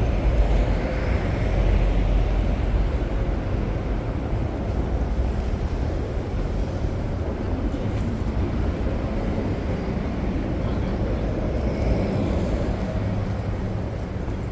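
Steady city street traffic noise: a continuous low rumble of passing vehicles, a little louder in the first couple of seconds.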